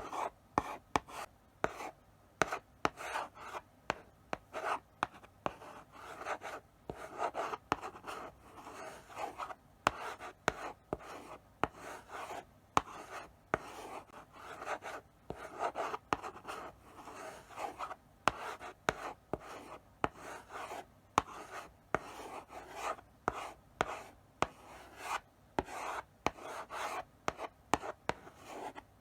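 Chalk writing slowly on a blackboard: a run of short scratchy strokes, with sharp taps as the chalk meets the board and brief pauses between letters.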